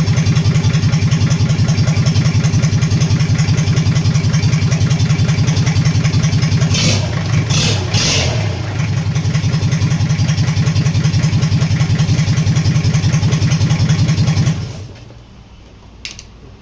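Freshly overhauled Toyota 3L four-cylinder diesel engine running steadily outside the vehicle on a test run, loudness briefly dipping about halfway. It shuts off near the end.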